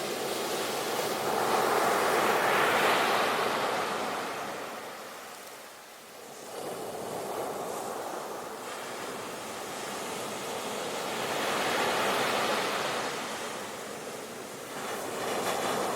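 Sea waves washing onto a shore, a steady rushing surf that swells and ebbs in slow surges: one peaks about two to four seconds in, dies away around six seconds, and another builds near twelve seconds.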